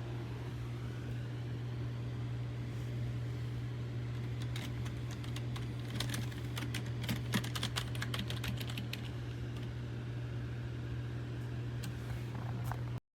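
Keystrokes on a SteelSeries Apex 5 mechanical keyboard with clicky hybrid blue switches: a run of typing clicks, densest from about six to nine seconds in, over a steady low hum. The sound cuts off abruptly near the end.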